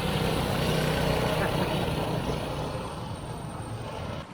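Small minibike engines running in a steady mix, getting somewhat quieter toward the end.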